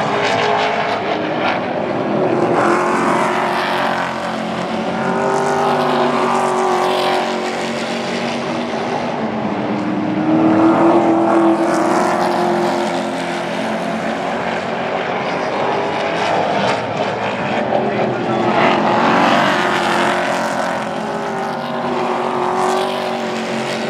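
Super trucks racing around a short oval, several engines running hard at once, their sound swelling and fading again and again as the trucks come past and go away down the track.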